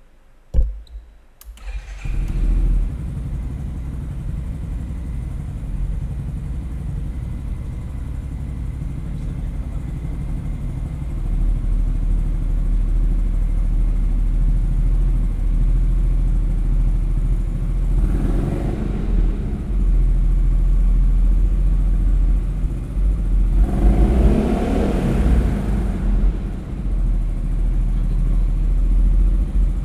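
Yamaha XMAX scooter engine with a ProSpeed aftermarket exhaust starting up about two seconds in, then idling with a deep exhaust rumble, with throttle revs twice in the second half and again at the end.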